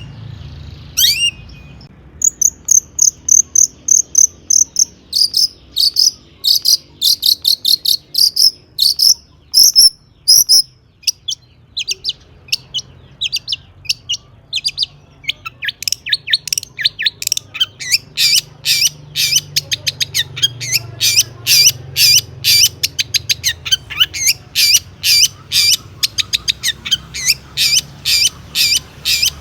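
Long-tailed shrike (cendet) singing in full song, a rapid chattering string of sharp high notes laced with mimicked phrases. A brief high trill comes about two seconds in, and from about halfway on the notes come in a quick, even series of short downward-sweeping calls.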